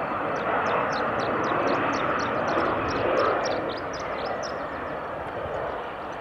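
Airliner engine noise at an airport: a steady, dense rush, with many short, high chirp-like ticks over it.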